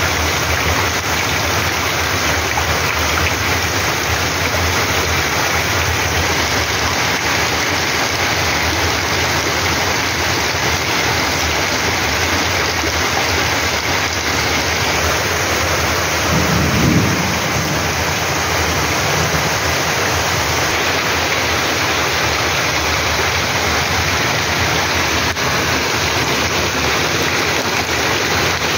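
Heavy rain pouring steadily onto a paved courtyard, plant leaves and water-filled flower pots, a dense even hiss of drops. A short low thump sounds a little past halfway.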